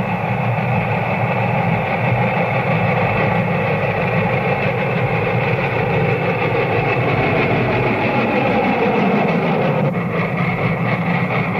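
A freight train running on the rails, a steady, dense rumble with no breaks.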